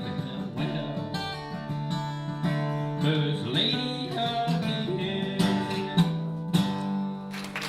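Acoustic guitar, its body made of mesquite, playing the closing instrumental bars of a folk song, strummed and picked, ending on a final chord struck near the end that rings out.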